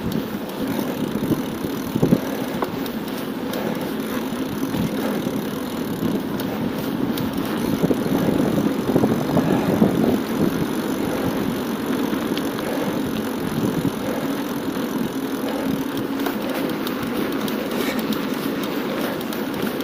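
Steady rolling noise of a bicycle ridden on asphalt, with wind on the camera's microphone. Occasional knocks, the sharpest about two seconds in.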